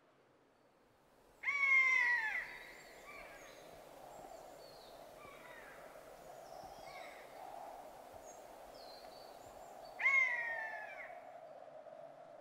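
Common buzzard giving two mewing calls about eight seconds apart, each about a second long and falling in pitch. Faint high chirps of small birds come in between.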